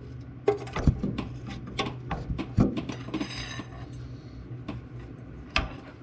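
Irregular metallic clinks and knocks of a hand ratchet and socket working a stuck exhaust manifold stud on a Ford 460 V8, with a short rasp about three seconds in. A steady low hum runs underneath.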